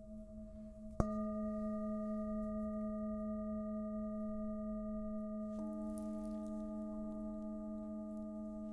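Singing bowls ringing: a bowl struck about a second in rings on as a steady chord over the wavering hum of an earlier bowl, and a second bowl joins with a lower tone a little past halfway.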